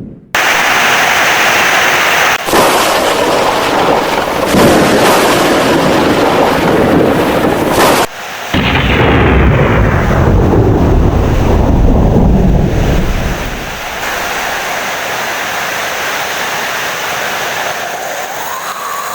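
Heavy rain with thunder: a loud, dense downpour with a long roll of thunder starting about eight seconds in and dying away, after which steady rain continues more quietly.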